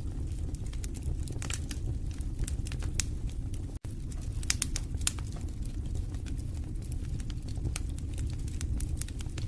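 Wood fire burning in a fireplace, crackling with frequent sharp pops and snaps over a steady low rumble of the flames. The sound drops out for an instant about four seconds in.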